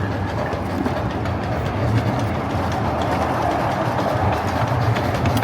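Steam train heard from aboard: a steady rumble of the cars rolling along the track, with faint clicks from the wheels on the rails.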